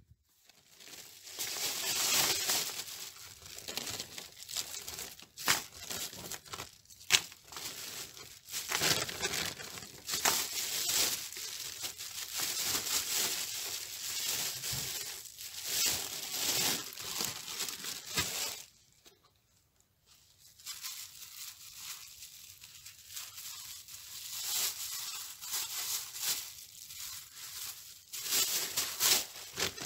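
Plastic bags crinkling and rustling while being filled with lumps of Siberian coal, with a few sharp knocks as coal goes in. There is a short pause about two-thirds of the way through.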